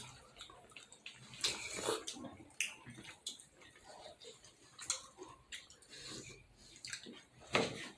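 Wet chewing and slurping of juicy momo dumplings, with scattered smacking clicks.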